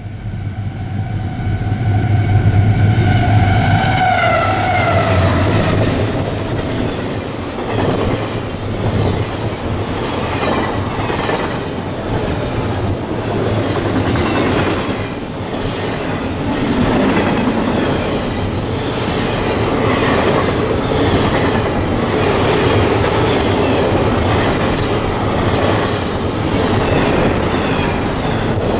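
A diesel-hauled freight train passing close by. The locomotives go by with a low engine drone and a long tone of several pitches that drops as they pass, then the freight cars clatter steadily over the rail joints.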